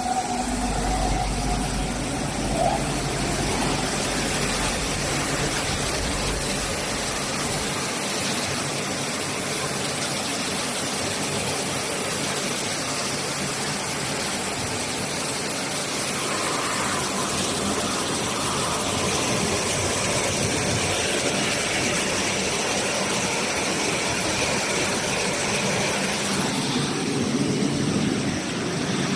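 Industrial box washing machine running, a loud, steady mechanical noise; a deep low rumble in it drops away about eight seconds in.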